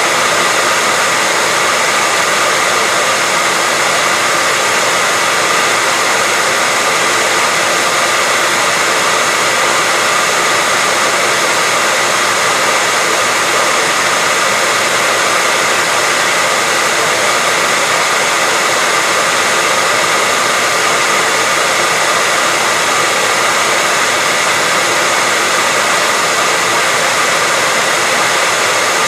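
Hair dryer running steadily: a continuous, even hiss of rushing air with a faint steady whine, unchanging throughout.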